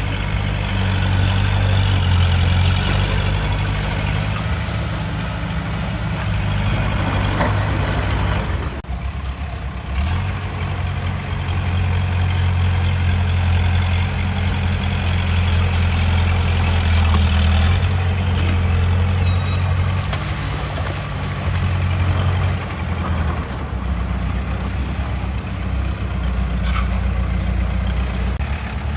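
Heavy diesel engine of earthmoving machinery running under load, a low steady hum whose pitch shifts now and then, with a short dip about nine seconds in.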